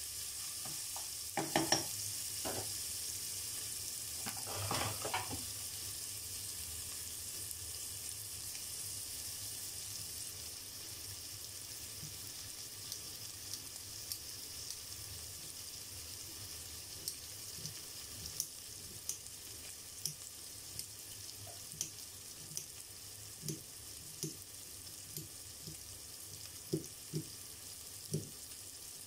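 Onions, tomato, garlic, ginger and chili sizzling steadily in hot oil in a pot, with a wooden spoon stirring and knocking against the pot in the first few seconds. Later, small pops about once a second as the oil spits.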